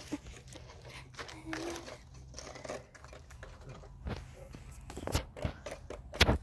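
Rustling, crinkling handling noise from the phone being held and shifted while it films, with a few sharp knocks near the end as the phone is nearly dropped.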